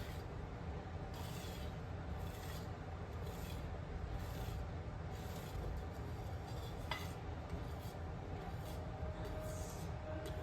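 Rhythmic scraping strokes in the kitchen, about one a second, like a utensil worked against a bowl, over a faint steady hum.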